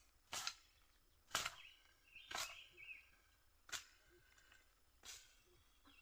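Hoe or digging tool striking into soil, about one stroke a second, five strokes in all, while potatoes are dug up by hand. A few faint bird chirps come about two to three seconds in.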